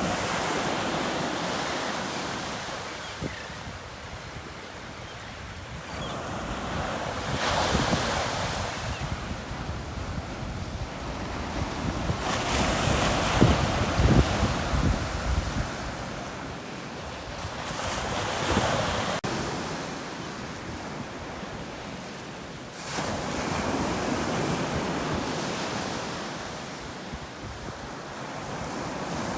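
Sea waves breaking on a beach, the surf swelling and fading in repeated surges a few seconds apart, loudest about halfway through. Wind buffets the microphone at times.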